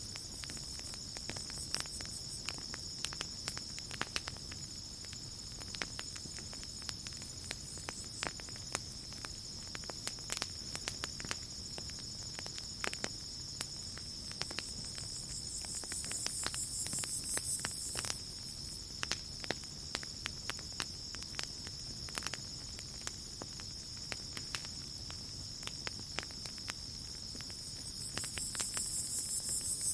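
Campfire crackling with frequent irregular pops and snaps over a steady, high chorus of crickets. A higher insect trill swells up twice, about halfway through and near the end.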